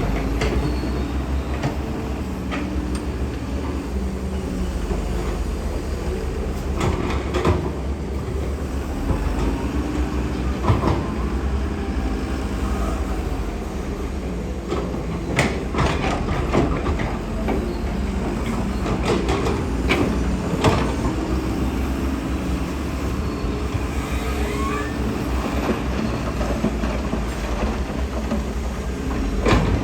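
A heavy diesel machine's engine running steadily under load, with scattered knocks and clatters through it.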